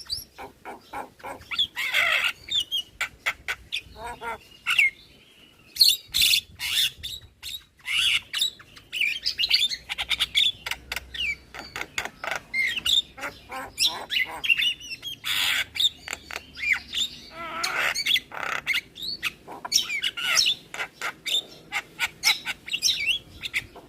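Javan myna song: a fast, varied stream of sharp clicks, short whistles, squawks and chatter, with a brief pause about five seconds in.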